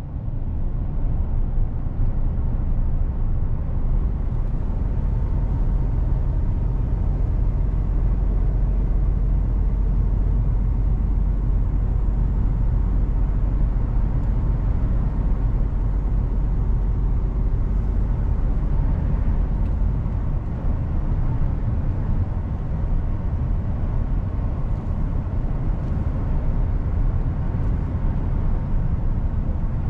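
Mercedes-Benz Actros truck driving at a steady pace: a continuous low diesel engine rumble with road noise, even throughout.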